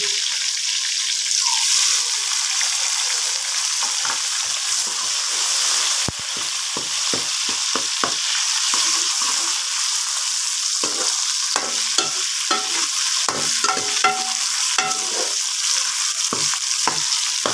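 Onions, tomatoes and ginger-garlic paste frying in hot oil in a metal pot, a steady high sizzle. A steel spoon stirs through it, scraping and knocking against the pot, the knocks coming thicker in the second half.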